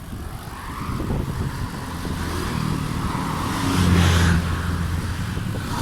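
A motor vehicle passing close by on the road, its engine hum building to its loudest about four seconds in, with road and wind noise.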